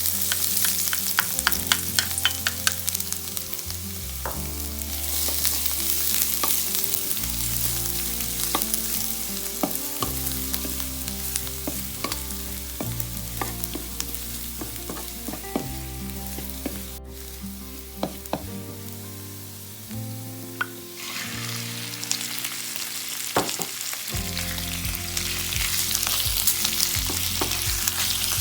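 Food sizzling and frying in a stainless-steel electric pan, with a spatula stirring and scraping in quick clicks. The sizzle eases off about two-thirds of the way through, then picks up again.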